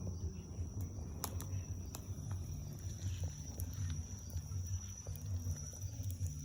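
Wood bonfire crackling, with scattered sharp pops, under a steady high-pitched insect drone.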